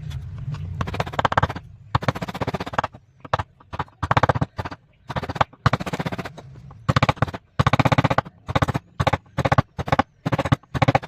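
Repeated short, rasping strokes of a hand tool cutting or abrading wood, each stroke a rapid run of tiny clicks, coming in irregular bursts with brief pauses between.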